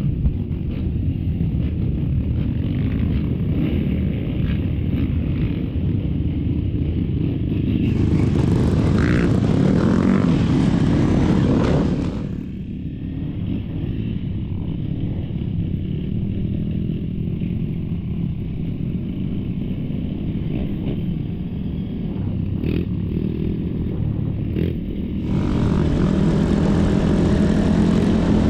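Dirt bike engine running, getting louder for a few seconds about eight seconds in and again near the end.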